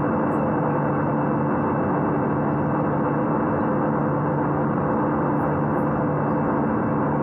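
Steady cabin noise of an Airbus A320 in flight: even jet engine and airflow noise with a steady low hum.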